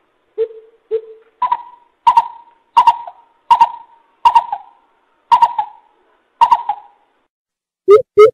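Coucal (bubut) calling in a series of hoots. Two low hoots are followed by seven higher hoots about 0.7 s apart, and near the end a quick run of lower, falling hoots begins.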